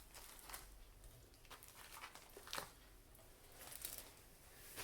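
Near silence, with a few faint, scattered clicks and light rustles of something being handled.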